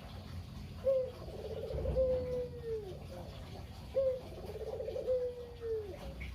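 A puter dove cooing its 'kugeru' call twice. Each phrase is a short note, a rapid rolling trill, then a long note that falls away at the end.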